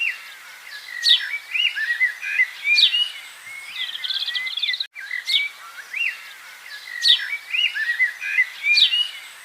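Songbird singing a phrase of clear whistled notes and quick chirps. After a brief break about five seconds in, the same sequence of notes repeats.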